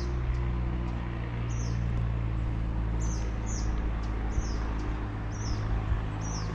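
A bird calling repeatedly, short high chirps that sweep downward, roughly one or two a second, over a steady low hum.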